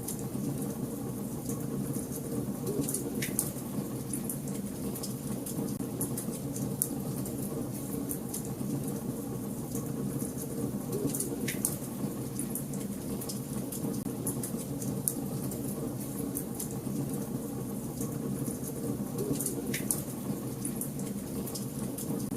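Wood fire burning in a fireplace, crackling steadily with many small ticks and three louder pops spread through, over a steady low rumble.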